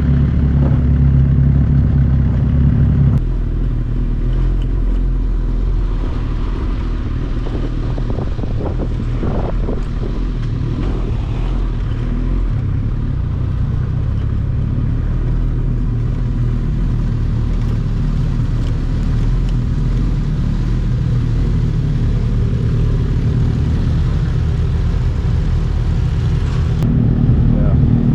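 Sportbike riding at highway speed, heard from on the bike: the engine running under a steady rush of wind noise. The sound changes abruptly about three seconds in and again near the end.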